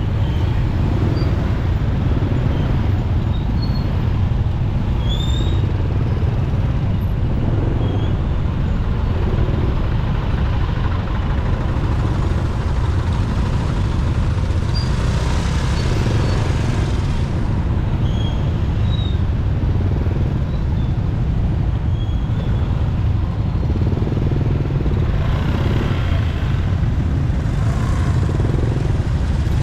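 Motorcycle riding through city traffic: a steady low engine and road rumble, with hissing swells from passing traffic around the middle and again near the end.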